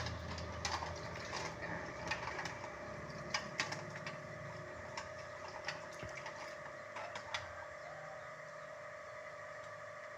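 Scattered light clicks and knocks from fridge parts being handled and scrubbed during cleaning, thickest in the first few seconds and thinning out later, over a steady hum.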